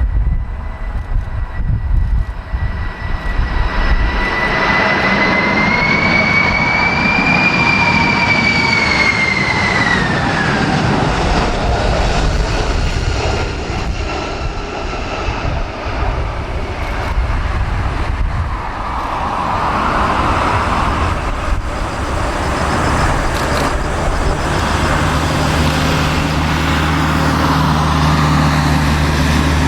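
A Boeing 747's jet engines whining on approach, the pitch rising slightly and then sliding down as the jet passes, with strong gusts buffeting the microphone. A low steady hum comes in near the end.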